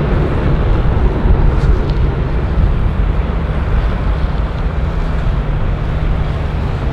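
Jet airliner's engines, a loud steady rumble that is deepest in the low end.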